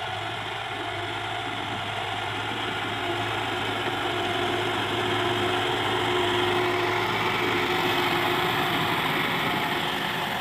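Massey Ferguson 375 tractor's four-cylinder diesel engine running steadily under load while pulling an 11-tine cultivator through mud. It grows slightly louder through the middle and eases off near the end.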